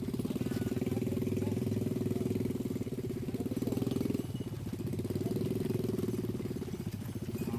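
A small engine running steadily at a low, even pulse, its note dropping briefly about four seconds in and then picking up again.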